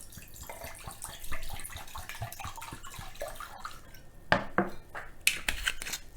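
Shaoxing wine being poured and splashing into a container. Several sharp clinks and knocks of kitchenware follow in the second half.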